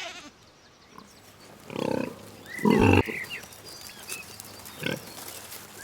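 A pig calling: two loud, rough calls about two and three seconds in, and a shorter one near the end.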